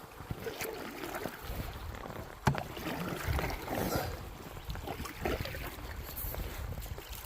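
Paddles dipping and splashing beside a fiberglass canoe moving down fast river water, with small knocks against the hull and one sharp knock about two and a half seconds in.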